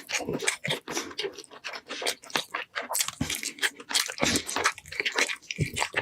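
Close-miked chewing and biting with frequent crisp crunches and wet mouth sounds, from eating roast meat.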